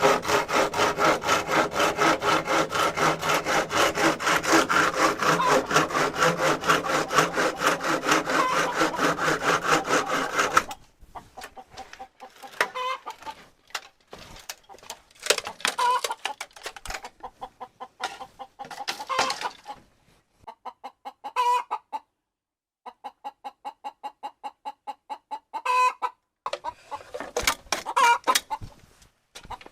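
Chickens clucking in repeated runs of short clucks, several runs ending in a louder call. For the first ten seconds a loud, fast rasping runs continuously, then stops suddenly.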